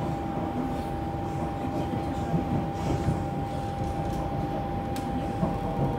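Siemens C651 electric multiple unit train running along elevated track, heard from inside the car: a steady rumble of wheels on rail with one steady high whine over it, and a faint sharp click about five seconds in.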